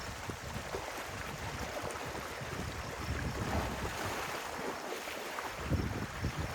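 Stream water rushing and splashing, with wind buffeting the microphone in low, uneven rumbles that grow stronger near the end.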